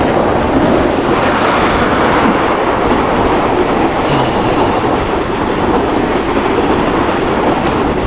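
Steady, continuous rumble and rattle of an electric scooter travelling over the lake ice.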